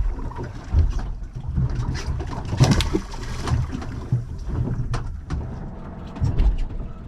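Open-water noise aboard a small anchored boat: an uneven low rumble of wind and water, broken by a few sharp knocks and clicks, the loudest about two and a half seconds in.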